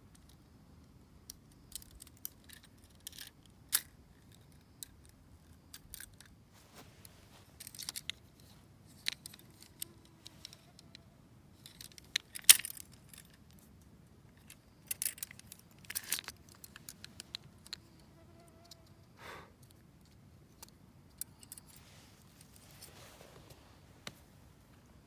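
Scattered metallic clinks and jingling, like carabiners or buckles, mixed with rustling of camp gear being handled. The clicks come in irregular clusters, and the sharpest clink comes about halfway through.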